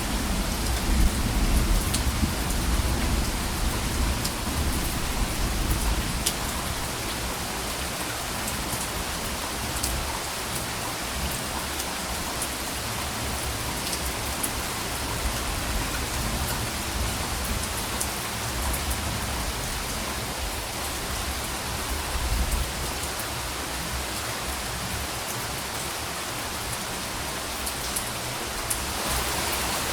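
Steady rain falling on surfaces, with scattered sharp drops. A low rumble of distant thunder fades out over the first several seconds and returns briefly about two-thirds of the way through.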